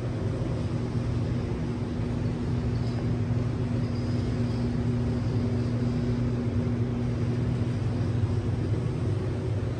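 Audi B5 S4's 2.7-litre twin-turbo V6 idling steadily.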